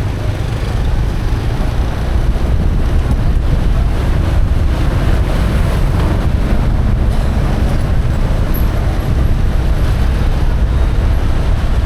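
Steady wind buffeting the microphone over the low rumble of a motorcycle and road noise while riding.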